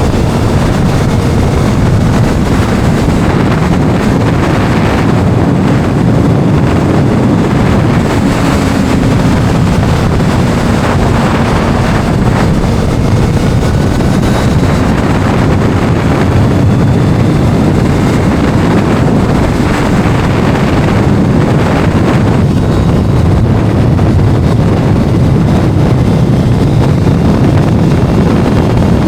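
Heavy wind rushing over the microphone of a moving inline-four Kawasaki sport motorcycle. The engine's note drifts up and down in pitch faintly beneath the wind.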